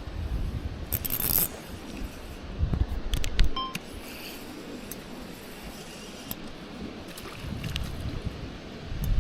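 Wind buffeting the microphone in uneven gusts, with a few light metallic clinks, the loudest about three and a half seconds in, with a short ring.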